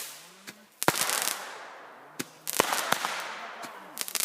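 Consumer fireworks going off: sharp bangs about a second in and again around two and a half seconds, each followed by a fading hiss, with smaller pops in between.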